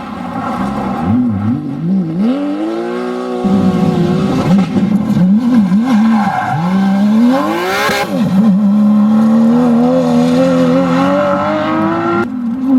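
Porsche 911 GT3 RS rally car's naturally aspirated flat-six engine under hard driving, its revs climbing and dropping again and again as it lifts off and shifts gear, with a long climb and sharp drop about eight seconds in. The sound changes abruptly shortly before the end.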